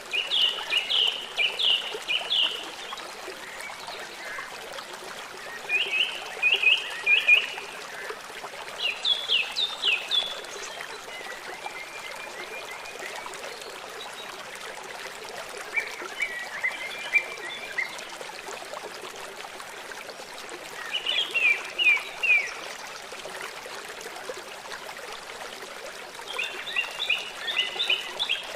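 Steady rush of running river water, with short phrases of rapid high chirping calls from a small animal coming every few seconds, seven times in all.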